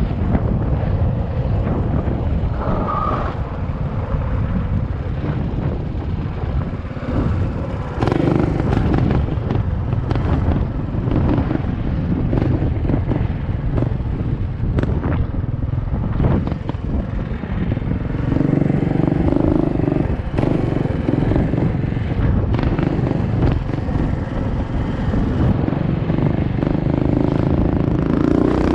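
Small motorcycle engines running during a drag race, swelling louder several times, under heavy wind rumble on the microphone.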